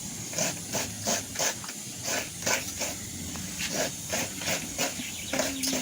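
Fresh coconut being grated by hand on a rapa-coco coconut scraper: regular rasping scrape strokes, about three a second.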